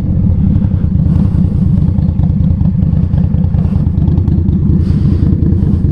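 2020 Indian Scout Bobber Twenty's V-twin engine running steadily while riding, a low, even engine note with rapid firing pulses.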